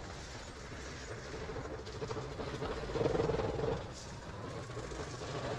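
A motorcycle running while it is ridden, a steady low rumble with a held engine tone that swells briefly about three seconds in.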